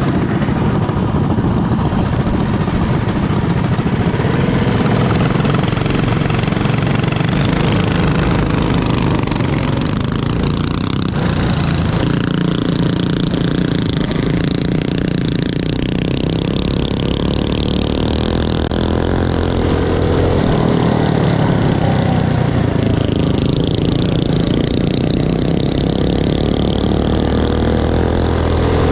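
Mini bike engines running on a dirt track, their pitch rising and falling as the throttles open and close.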